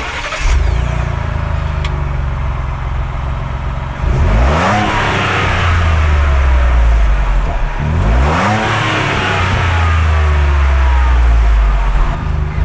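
Ford Bronco's 2.7L EcoBoost twin-turbo V6 running through a Borla stainless cat-back exhaust, pulling under acceleration. The note dips and climbs again twice, about 4 and 8 seconds in.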